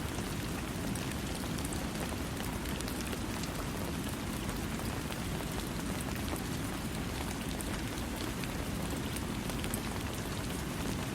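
Steady rain falling, an even hiss scattered with fine ticks of individual drops.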